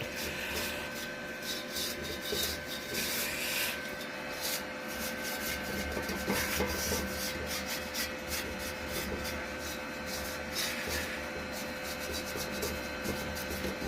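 Paint being worked into the seams and inside of a welded steel helmet in many short, scratchy strokes, over a faint steady hum.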